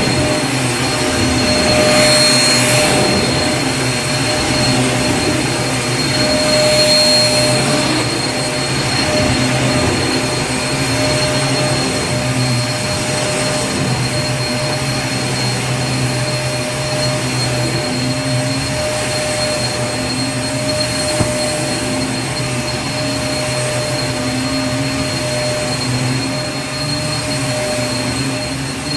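Vacuum cleaner motor running steadily: a constant rush of air with a steady whine of several fixed tones on top. It swells slightly a few times in the first several seconds.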